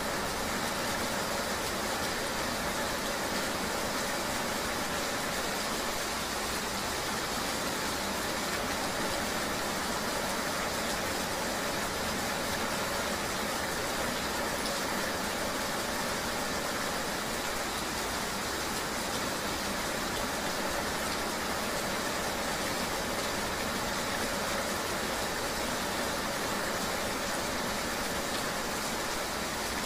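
Steady rainy-road ambience: a vehicle engine running under an even hiss of rain, with no change throughout.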